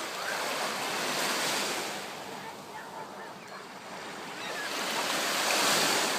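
Waves washing in, a steady rush of water that swells twice, about a second and a half in and again near the end.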